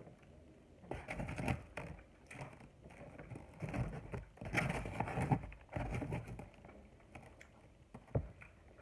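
Close-miked eating sounds: chewing with irregular wet mouth clicks and smacks, busiest in the first two-thirds, then one sharp click near the end.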